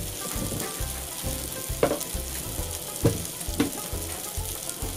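Onion-tomato spice masala sizzling in oil in a pan, fried down to the done (kosha) stage, with a few sharp clicks about two and three seconds in.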